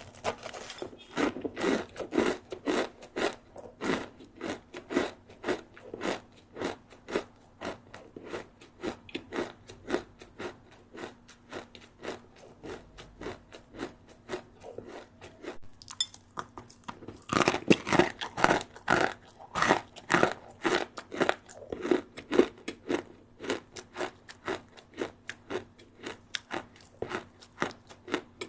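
Close-up crunching of a person chewing a crispy rice snack, about two crunches a second, growing louder for a few seconds past the middle as a fresh mouthful is bitten.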